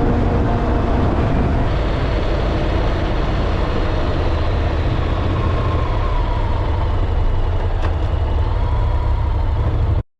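Honda NC750X motorcycle at highway speed: steady wind and road noise over the engine's low drone. It cuts off suddenly near the end.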